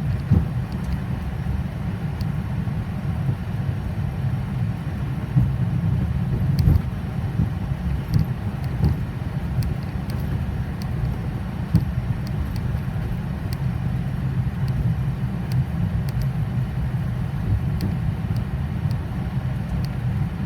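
Steady low rumble of a Boeing 737 taxiing with its engines at idle, heard from inside the cockpit, with occasional faint clicks.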